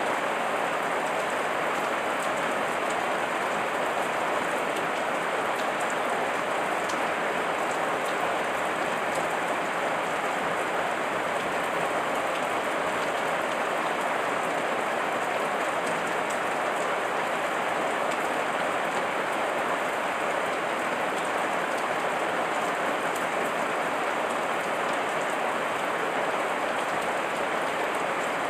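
Heavy rain falling steadily, an even, unchanging hiss of many drops.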